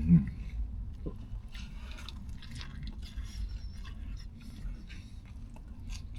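Close-up chewing of a turkey, ranch and bacon sub sandwich: irregular wet mouth clicks and soft crunches.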